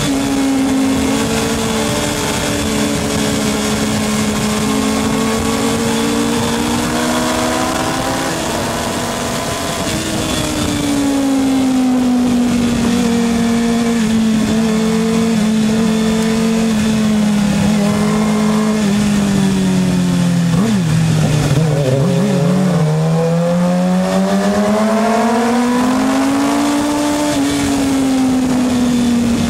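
Racing motorcycle engines running hard, more than one engine heard at once. Their pitch slides slowly down and back up as they slow and accelerate, dipping lowest about two-thirds of the way through before climbing again.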